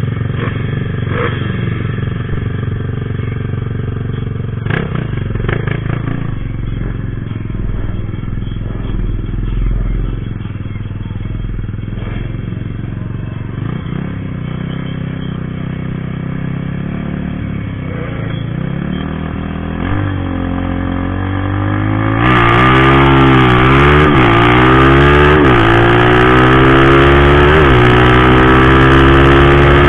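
Motorcycle engines idling steadily. About three quarters of the way in, a louder motorcycle engine revs up and down several times, then pulls away with its pitch rising steadily.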